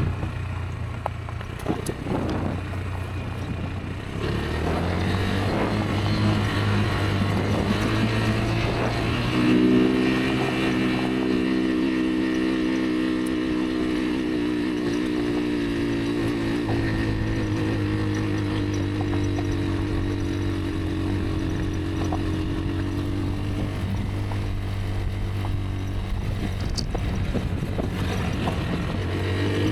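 Rieju Aventura 125's single-cylinder engine running under way on an off-road ride. The engine note drops off early on, climbs to a strong, higher note about ten seconds in, and then holds fairly steady.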